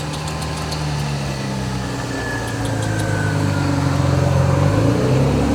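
An engine idling steadily, its pitch stepping up slightly near the end, with a few light clicks over it in the first few seconds.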